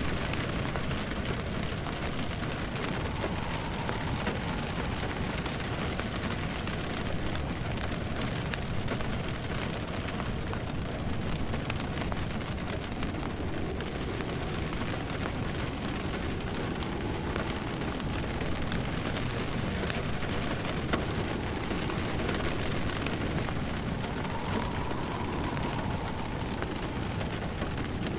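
Steady rain falling, with a wood fire crackling over it. A faint wind howl rises and falls a few times.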